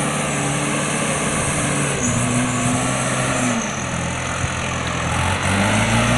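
Truck engine running steadily, its speed dropping about two seconds in and rising again near the end.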